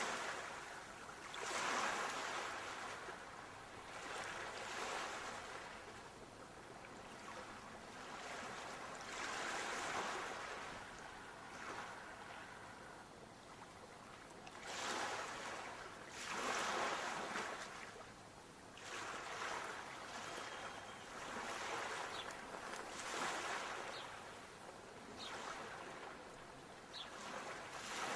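Sea waves breaking and washing on a shore, one surge every two to three seconds, rising and falling.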